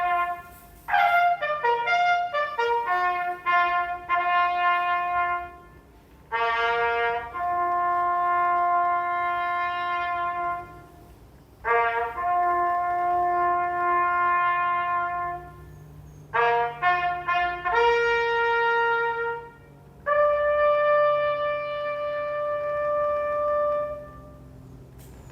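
A solo brass bugle call for the remembrance of the war dead, marking the two-minute silence. It plays phrases of quick notes that each settle into a long held note, with a short pause between phrases.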